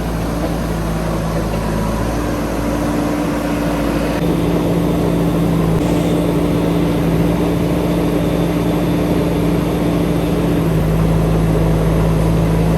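JCB 3DX backhoe loader's diesel engine running steadily with a constant low hum, a little louder from about four seconds in.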